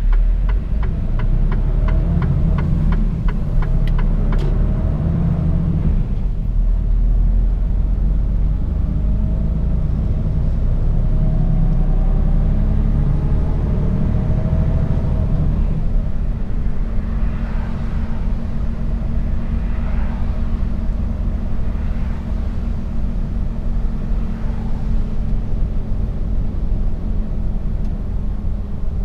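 Mercedes-Benz Actros truck's diesel engine running as it drives, a steady low rumble heard from the cab. A rapid, even ticking runs through the first four seconds or so, and faint rising tones come through in the middle as the truck picks up speed.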